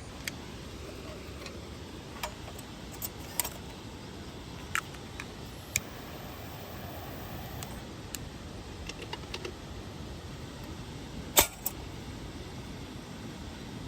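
A dozen or so sharp clicks and light knocks, irregularly spaced, the loudest about eleven seconds in, over a steady low background noise.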